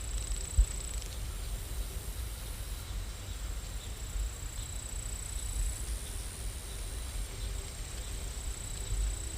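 Steady rain ambience: an even hiss over a low rumble, with a thin high steady tone like insects that comes and goes. One short thump just over half a second in.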